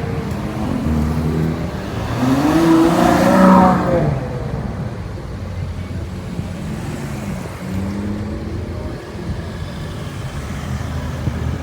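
Car engine revving hard, climbing in pitch for about two seconds, then dropping back to lower, steadier running with light blips.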